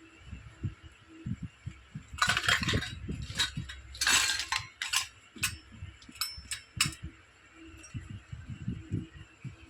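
Small plastic toy kitchen pieces being handled: soft knocks and light clinks, with two brief scraping sounds about two and four seconds in and a cluster of sharp clicks after them.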